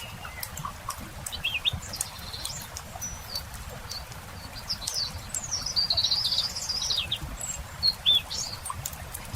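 Small birds chirping, with a longer twittering song about five seconds in, over the steady crackle of a campfire.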